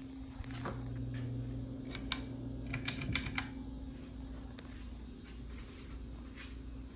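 Steady low electrical hum from a Hunter Highbury II ceiling fan motor that turns only very slowly on high speed, a sign of its bad motor. A quick run of sharp clicks comes about two to three and a half seconds in.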